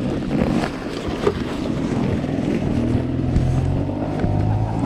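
Off-road motorcycle engine running, rough and uneven at first, then holding a steady note from about halfway through.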